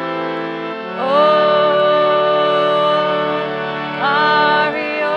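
Harmonium chanting: a steady harmonium drone under a woman's voice singing a mantra in long held notes. A new phrase slides up into its note about a second in, and another about four seconds in.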